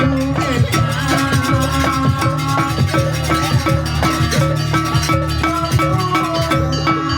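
Live traditional Javanese folk ensemble music, with hand drums and metal percussion playing a busy, steady rhythm under held melodic tones.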